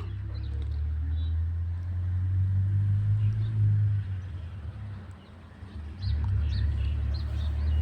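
Small birds chirping faintly and intermittently over a loud, low rumble that eases briefly about five seconds in and then returns.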